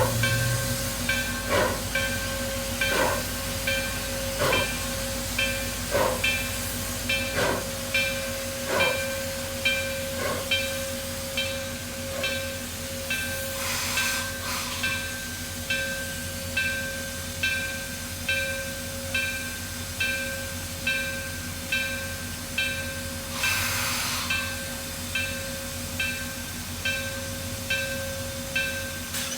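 Steam locomotive working a train, its exhaust beating slowly and regularly, with steady mechanical tones underneath. Two short bursts of hissing steam come about halfway through and again later.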